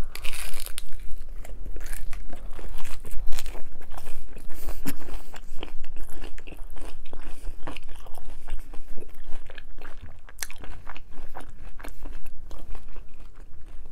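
Close-miked chewing of a mouthful of gluten-free pizza crust: a steady run of crisp crunches and clicks.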